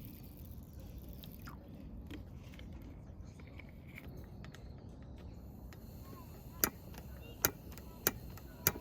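Four sharp, short clicks about two-thirds of a second apart in the second half, over a low, steady background rumble.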